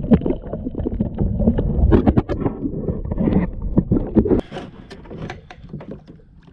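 Knocks and handling clatter against a kayak as a small rainbow trout is landed. A low rumble underneath drops away about four seconds in.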